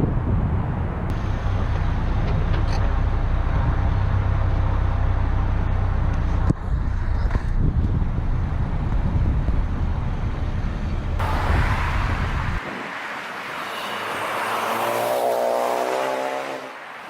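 2015 Ford Focus ST turbocharged four-cylinder, with catless downpipe and electronic exhaust cutout, running loud and steady with a deep exhaust drone. About twelve seconds in the low drone cuts off abruptly, and a higher engine note rises and then fades.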